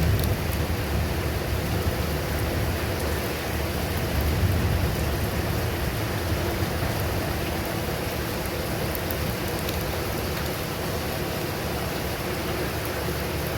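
Steady rain falling in a thunderstorm, with fine drop ticks in the hiss. A low rumble swells briefly near the start and again around four to five seconds in.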